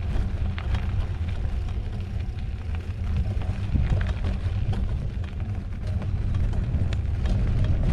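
Wind buffeting the microphone as a mountain bike rides along an off-road dirt trail, with scattered small clicks and rattles from the tyres and bike.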